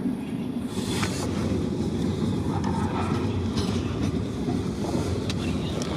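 Freight train rolling past: a steady low rumble of railcars on the track, with scattered sharp wheel clicks.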